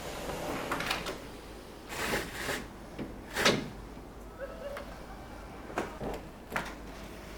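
Several short scraping and rubbing strokes spaced a second or more apart, the loudest about halfway through: hands working a cleaning tool over a window and its frame.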